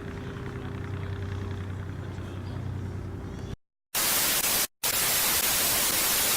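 A steady low hum for about three and a half seconds, then a sudden cut and a loud hiss of white-noise static that drops out briefly a couple of times.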